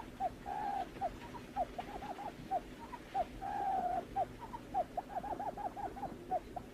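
Barred buttonquail call: a rapid run of short, hooked hooting notes, several a second. Two longer drawn-out notes come about half a second in and again about three seconds in.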